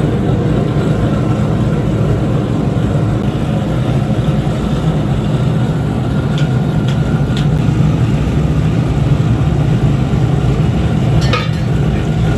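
Steady, loud machinery drone with a low hum, with a few faint clicks and a brief sharper noise near the end.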